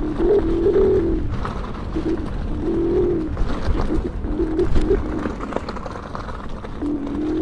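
Electric unicycle's hub motor whining in a low hum that steps up and down in pitch and comes and goes as the rider works the throttle, over wind and trail rumble.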